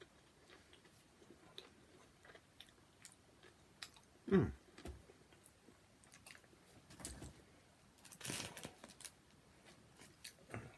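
A man chewing and biting a mouthful of sub sandwich, messy eating with scattered wet mouth clicks and smacks. There is a louder mouth sound about four seconds in and a noisier stretch of chewing near the end.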